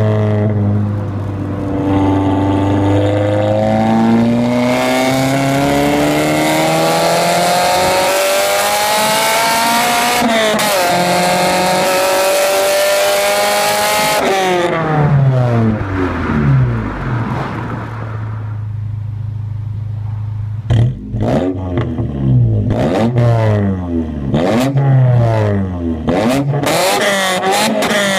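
Honda Accord Type R's 2.2-litre four-cylinder VTEC engine through a de-catted, straight-piped exhaust with no back boxes. The revs climb slowly for about ten seconds, dip briefly, climb again, then fall back to a steady idle, and in the last eight seconds the throttle is blipped in a run of quick revs.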